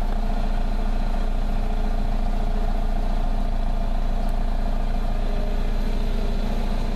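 Car engine idling steadily, heard at the exhaust tailpipe while the engine warms up.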